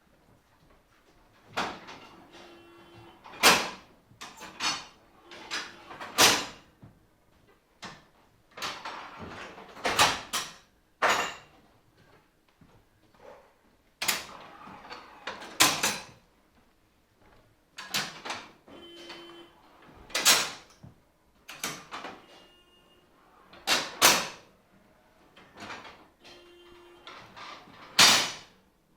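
Signal box equipment being worked by hand: a series of loud metallic clunks and clatters every second or two, some with a brief ringing tail.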